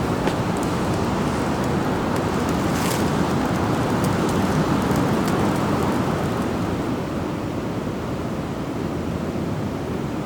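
Steady rushing of a mountain river and waterfall, an even roar of water with a few faint ticks.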